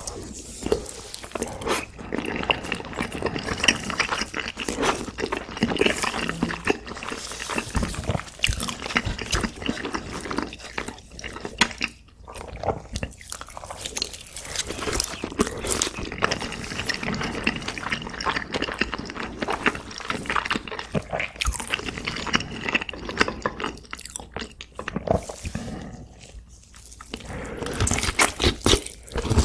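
Close-miked eating: dense, wet chewing clicks as a fried egg is chewed. Near the end comes a fresh, louder bite into a sauce-covered braised pork back rib.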